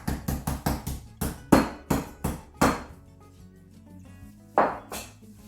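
Meat tenderizer pounding raw chicken wrapped in cling film: a quick run of strikes, then about five slower, heavier blows, and one last blow near the end.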